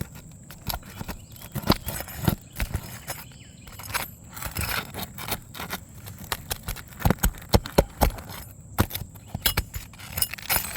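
Irregular metal knocks, clicks and scrapes of a roofing hatchet and nail puller working against asphalt shingles as roofing nails are pried out, with a cluster of louder knocks about seven seconds in.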